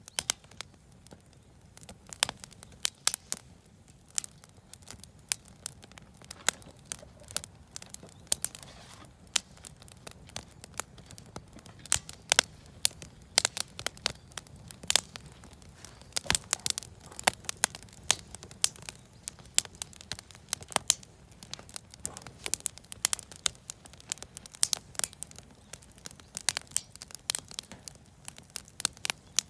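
Campfire of scrap-wood offcuts and firewood crackling, with irregular sharp pops and snaps over a steady low rumble.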